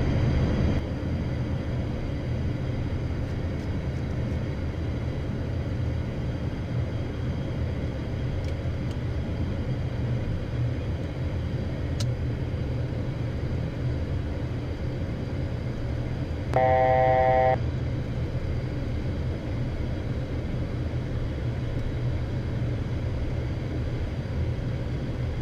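Steady engine and air noise inside the cockpit of a Beechcraft Premier I business jet on departure, easing slightly about a second in. About two-thirds of the way through, an electronic cockpit tone sounds for about a second, louder than the cabin noise.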